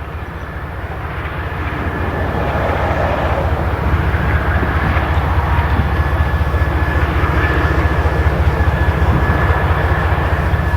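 Diesel freight locomotive engines running with a deep, steady rumble. It grows louder over the first few seconds, then holds.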